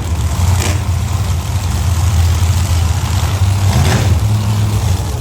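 Monster truck engines idling with a loud, steady low rumble.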